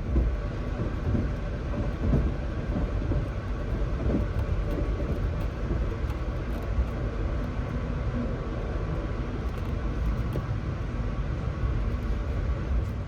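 Steady low rumble of a moving Amtrak passenger train, heard from inside the passenger car, with a few faint knocks in the first few seconds.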